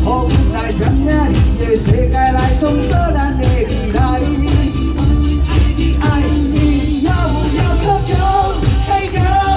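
A live band playing a pop song, with a sung melody over a steady drum and bass beat.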